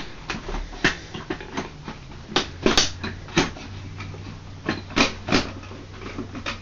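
Plastic parts of a Hoover NANO bagless vacuum cleaner being handled and fitted back together: a string of irregular clicks and knocks, with a faint low hum in the middle.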